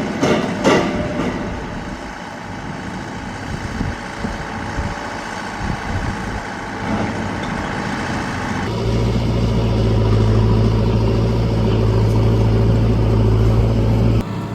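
Engine and vehicle noise, with a loud, steady, low engine hum starting about nine seconds in and cutting off abruptly near the end.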